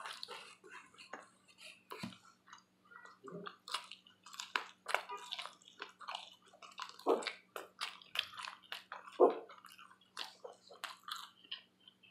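A person chewing buffalo wings close to the microphone: irregular short, wet mouth clicks, over a faint steady hum.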